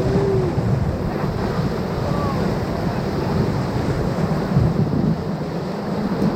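Rushing whitewater of a river rapid around the raft, with wind buffeting the microphone. A couple of brief faint voices come through the roar.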